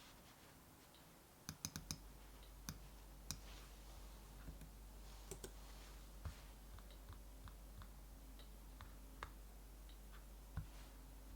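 Wood fire crackling faintly, with irregular sharp pops and snaps of varying size. A faint low hum comes in about two seconds in.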